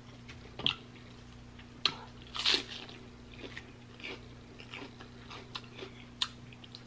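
Mouth sounds of chewing sauced barbecue beef rib meat: short, scattered smacks and clicks, the loudest cluster about two and a half seconds in, over a faint steady hum.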